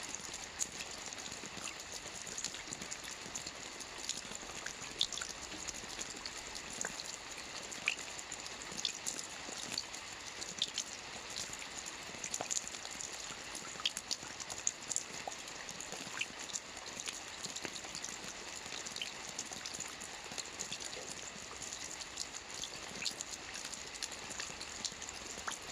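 Light rain falling steadily: an even hiss with many separate drops ticking close by.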